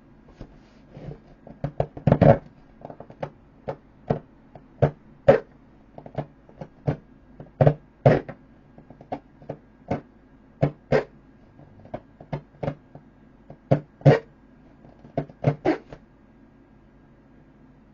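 Inflated vinyl boat being repeatedly struck and squeezed: a long run of short squeaky thumps, about one or two a second at uneven spacing. The loudest cluster comes about two seconds in, and the run stops a couple of seconds before the end.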